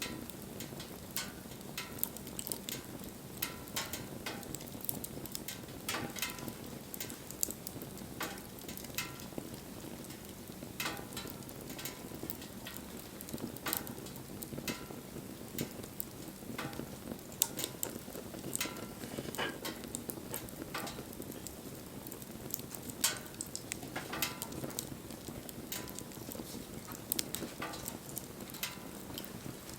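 Wood fire burning: a steady low rush of flame with frequent sharp, irregular crackles and pops.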